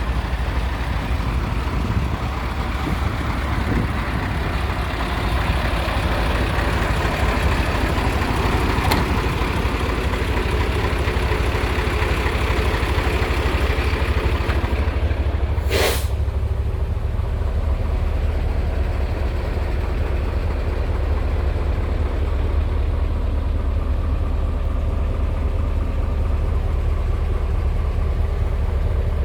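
Mercedes-Benz SK 2629 6x6 tipper truck's diesel engine running steadily, with a short sharp hiss of released air about halfway through.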